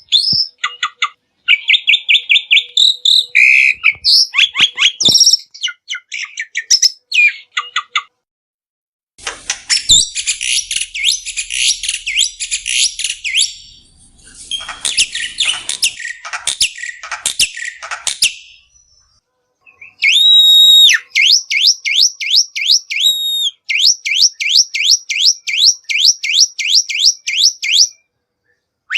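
Black-winged myna (jalak putih) singing in separate phrases with short pauses between them. The song opens with varied whistles, turns to harsh scratchy chattering in the middle, and ends with a fast run of repeated sharp notes at about four a second.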